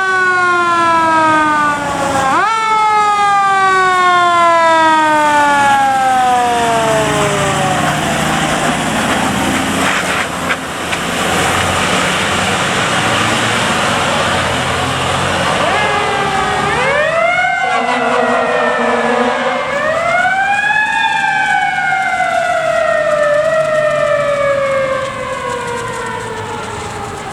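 Fire truck siren winding up sharply and then sliding slowly down in pitch, twice in quick succession. After a stretch of heavy traffic-like noise it winds up again twice, the last fall trailing off slowly.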